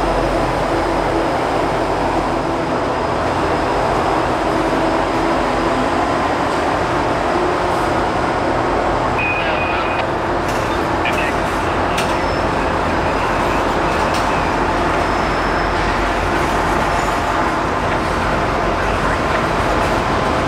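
Norfolk Southern coal train passing: the EMD SD60E diesel locomotives running as they move off, then loaded coal hopper cars rolling by with a steady wheel-on-rail noise. A few sharp clicks and a brief high squeal come about halfway through.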